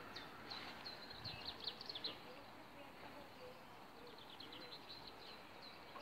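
Small birds chirping: quick runs of short, high, falling chirps, one spell in the first two seconds and another past the middle, over faint outdoor background noise.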